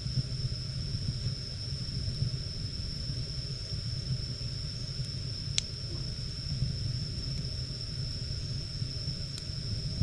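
Wood fire burning with a steady low rumble, with one sharp crackle about halfway through and a fainter one near the end.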